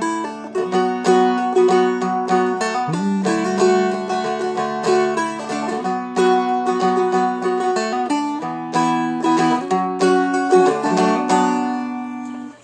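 Seagull Merlin M4, a four-string fretted dulcimer, flatpicked in B minor: a melody line of plucked notes over ringing open drone strings, with a slide up to a note about three seconds in. The last notes fade out near the end.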